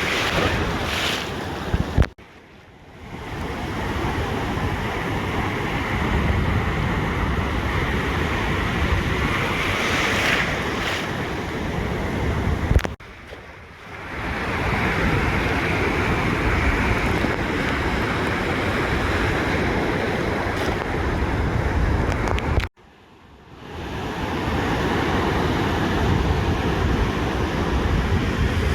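Ocean surf washing steadily on a beach, with wind buffeting the microphone. The sound cuts out suddenly with a click three times, about ten seconds apart, and builds back over a second or two each time.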